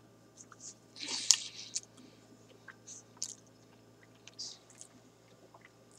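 A person biting into and chewing a mouthful of burger topped with crispy garlic chips: scattered short crunches and wet mouth clicks, the loudest cluster about a second in.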